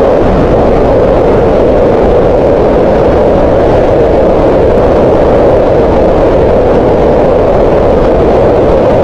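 Green noise: a steady, unbroken hiss of synthetic noise centred around the middle of the audible range, heaviest near 500 Hz and thinning toward the highs and lows.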